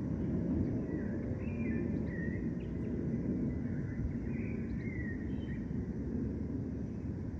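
Steady low rumble of distant city traffic, with birds chirping over it in short, scattered calls, several of them quick falling whistles.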